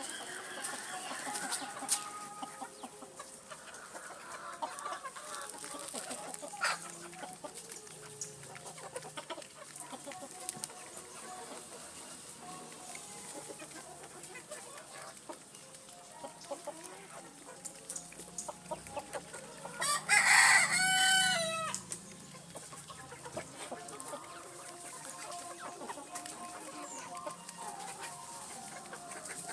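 A flock of Sonali chickens clucking steadily, with a rooster crowing loudly once about two-thirds of the way through.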